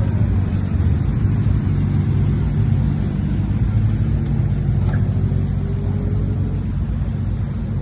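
Car engine and exhaust running steadily at an even speed, its sound deep and low, with a faint slowly rising whine in the middle.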